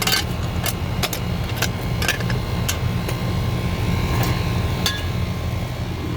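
A steady low machine hum, with irregular sharp clinks and knocks of hand-tool work on metal, about eight over a few seconds.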